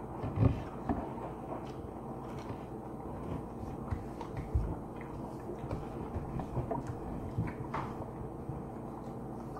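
People eating finger food, biting and chewing with small clicks and mouth noises, with two dull thumps about half a second in and about four and a half seconds in, over a steady low background hum.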